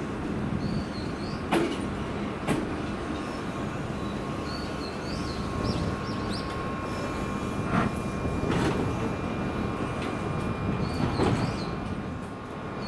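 A train rolling slowly past at close range with a steady rumble. Its wheels click over rail joints in spaced pairs, and a faint steady whine comes in a few seconds in.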